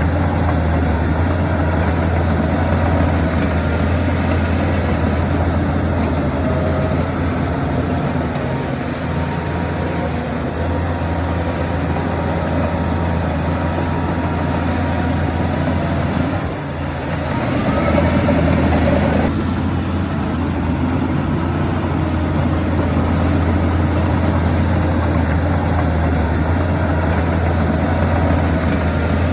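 Heavy diesel engine of earthmoving machinery running steadily with a deep drone. About seventeen seconds in, the engine sound briefly dips, then swells louder for about two seconds, as under load, before settling back.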